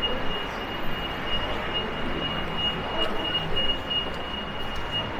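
City street ambience: a steady wash of road traffic noise, with a thin steady high-pitched whine above it.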